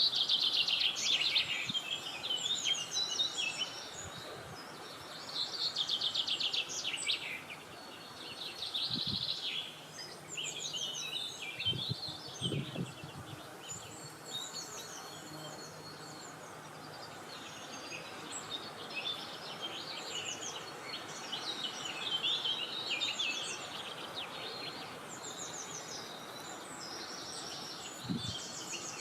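Several songbirds singing at once, dense chirping and trilling phrases overlapping one another, over a steady soft hiss of outdoor background noise. A few brief low thumps around the middle and near the end.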